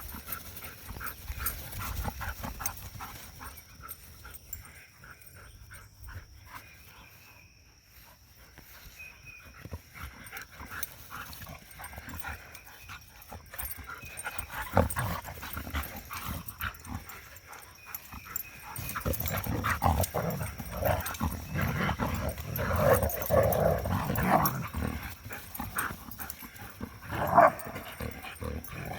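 Dogs play-fighting, with scuffling and growling that grow louder and busier from about two-thirds of the way through.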